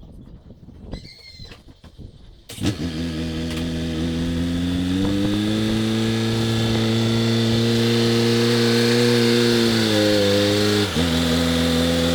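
Loader's engine starting about two and a half seconds in and running steadily; its pitch rises a little a couple of seconds later as it is throttled up, then drops back near the end.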